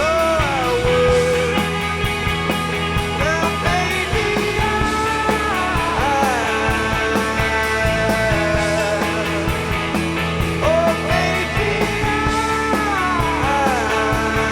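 Rock band music with no lyrics sung: a lead melody with gliding, bending notes over a steady beat, bass and accompaniment.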